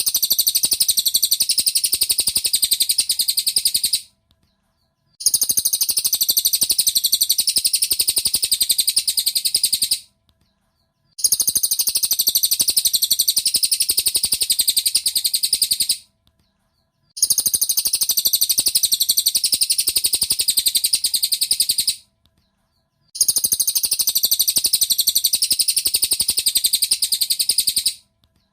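Cililin bird singing a rapid, high-pitched run of chirps in stretches of about five seconds, each broken by a second of silence, the same passage repeating as a looped masteran training recording.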